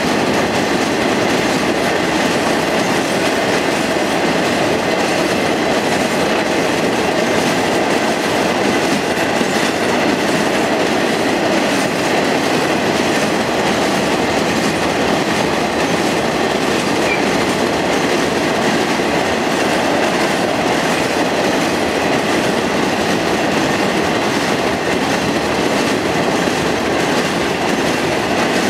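Train of empty iron ore cars rolling past close by: a steady, unbroken rumble and rattle of steel wheels on the rails, with some clickety-clack over the joints.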